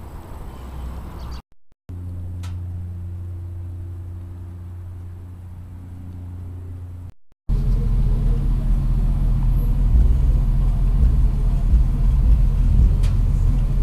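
Cadillac Escalade's V8 idling, heard near its exhaust: a steady low rumble with an even hum. It is louder and rougher for the second half, after a short break about seven seconds in.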